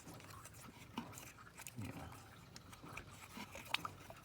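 Faint scattered clicks and light scraping of hands working in an engine's oil filter housing, with one sharp click about a second in and another near the end.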